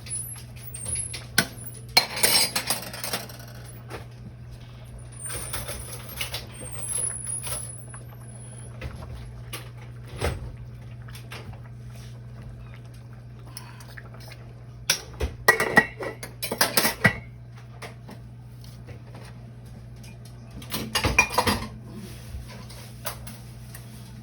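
Metal utensils and pots clattering in several short clusters of clinks and knocks, over a steady low hum.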